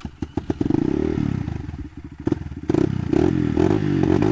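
Off-road trail motorcycle engine running close by and being revved: a few clicks and knocks at the start, then the revs rise about half a second in, drop back around two seconds, and climb again to hold near the end.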